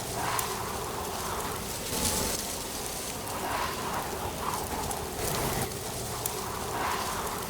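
Autumn wind rustling through leaves: a dense, steady rustling noise that swells in gusts every second or two, with one sharp click near the end.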